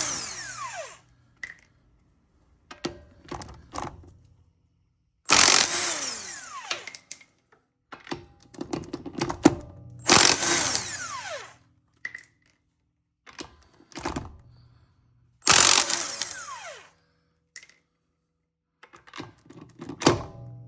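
A power tool spinning lug nuts off a wheel in short runs, about every five seconds, each ending in a falling whine as the motor winds down, with small clicks and clinks of the nuts and socket between runs.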